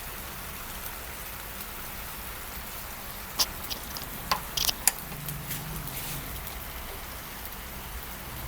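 Chicken legs sizzling steadily in a frying pan, with a few sharp clicks between about three and five seconds in.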